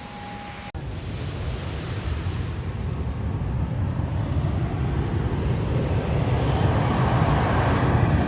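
Jet airliner approaching low overhead, its engine rumble growing steadily louder, with wind on the microphone.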